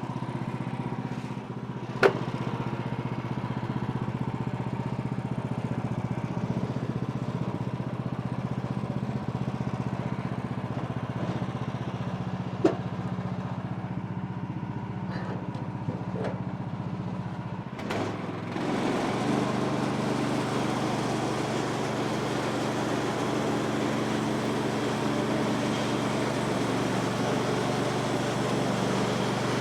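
Gas engine of a Woodland Mills HM126 portable bandsaw mill running steadily during a cut, with a couple of sharp knocks. About two-thirds of the way through, the sound grows fuller and gains a hiss.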